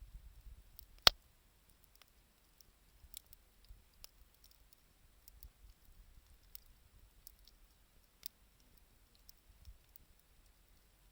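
Wood campfire crackling, with scattered small ticks and pops at irregular intervals and one sharp, loud pop about a second in.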